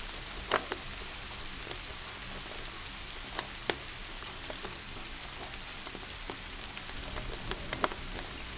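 Steady rain hiss with scattered sharp pops and crackles of a wood fire, a cluster of them near the end.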